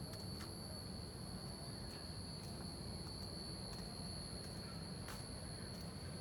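Insects chirping in a steady, unbroken high-pitched trill, with a constant low rumble beneath.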